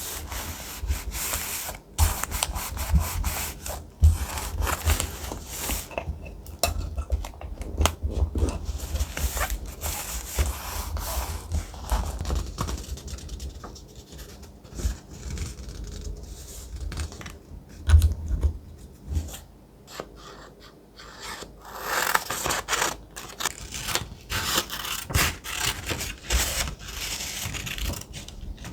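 Thick paper being handled and rubbed by hand: irregular rustling and scraping with soft knocks and thuds against the desk, turning into a denser stretch of rubbing from about twenty-one seconds in.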